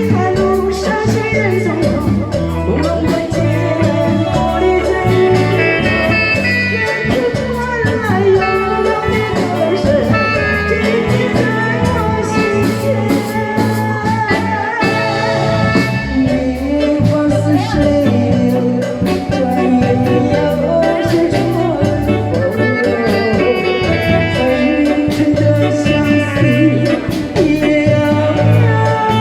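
A singer performing a Chinese song with instrumental accompaniment and a steady, repeating bass line.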